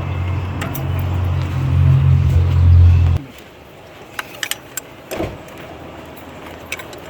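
A loud, steady low mechanical drone that cuts off abruptly about three seconds in, followed by scattered light metallic clicks and taps, like hand tools and loose parts being handled.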